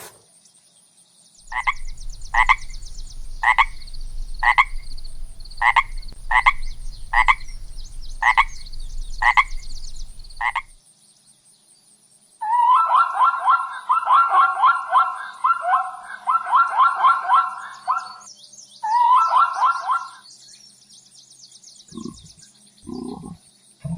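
Frogs calling: a string of short croaks about one a second, then a long, rapidly pulsing trill and a shorter trill after a brief pause.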